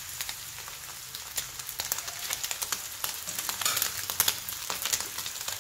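A flour-coated egg strip sizzling in hot oil in a frying pan, a dense crackle of quick small pops.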